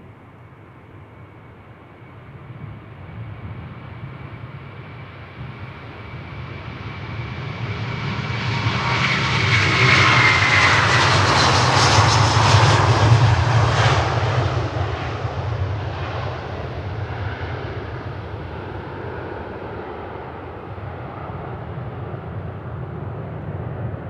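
Jet airliner passing by: engine noise swells to a peak about halfway through and then fades away, with a high fan whine that drops in pitch as the aircraft goes past.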